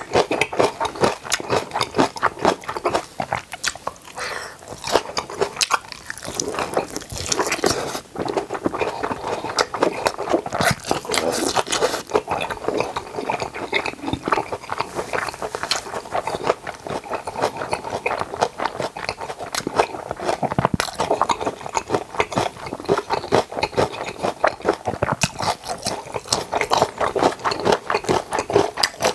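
Close-miked eating sounds of kimchi and boiled pork being chewed: a dense, steady run of crunches and wet chewing.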